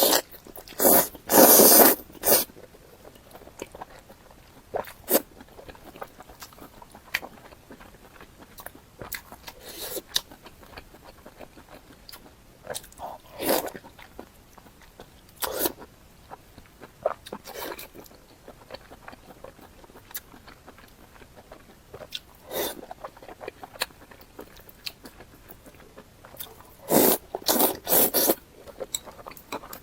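Crunchy fried food being bitten and chewed close to the microphone, in separate loud crunches. There is a dense run of big bites just after the start and another near the end, with quieter chewing crunches scattered between.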